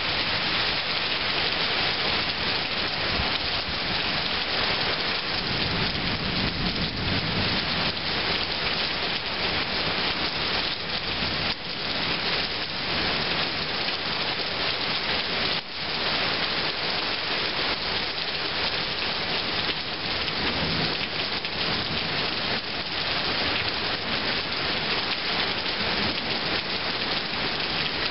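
Heavy rain pouring steadily in a thunderstorm, with a low rumble of thunder swelling about six seconds in and again faintly later on.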